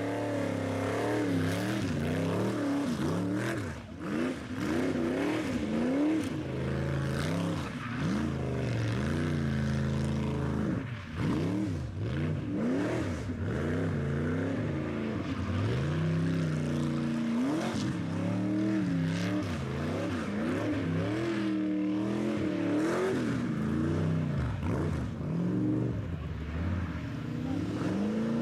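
Car engine revving hard again and again, its pitch climbing and falling in quick sweeps with short steadier stretches between.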